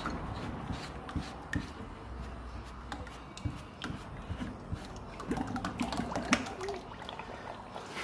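Oil trickling and dripping as the engine's oil pump is tested, among scattered light metallic clicks and knocks. The flow shows the oil pump is working.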